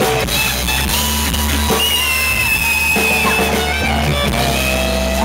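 Live rock band playing an instrumental passage: drum kit and bass under a sustained, bending lead guitar line.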